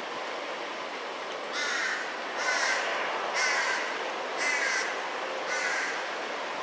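A bird giving five harsh, cawing calls about a second apart, over a steady hiss of airport and aircraft noise.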